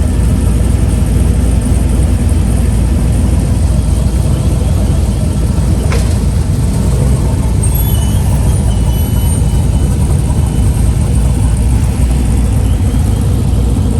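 Steady low rumble of car engines as cars drive slowly past into a car show lot.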